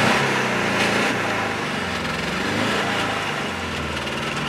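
Car engine idling with a massive exhaust leak, its pitch wavering slightly. The engine has just had its head gaskets replaced and is still burning off coolant left in it.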